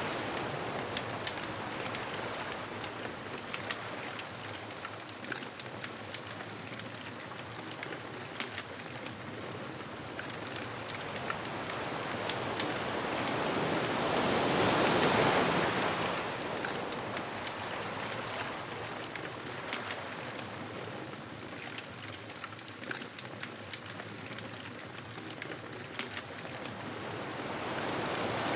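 Ocean waves washing on a beach: a steady surf noise that swells as a wave breaks about halfway through, with fine crackling over the wash.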